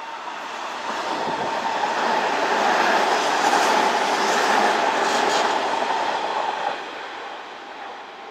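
Kintetsu electric train running by on the track, swelling to its loudest in the middle and easing off, with a steady whine running through the rumble of the wheels.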